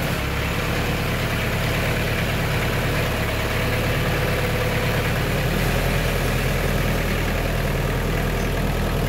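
Diesel engine of a small compact tractor running steadily as the tractor pulls away, with a slight shift in its low drone about five seconds in.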